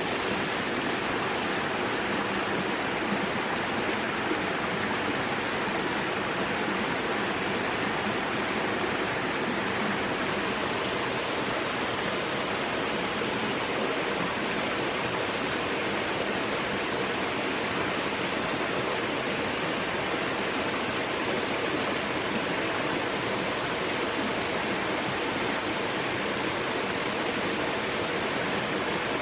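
A steady, unchanging rushing noise with no breaks or separate events.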